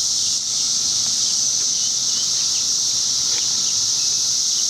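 Loud chorus of cicadas: a continuous, steady, high-pitched drone, with a few faint short chirps over it.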